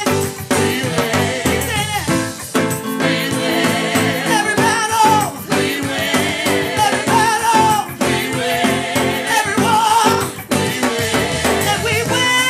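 Gospel worship music: a band playing under a singer's voice holding wavering sustained notes.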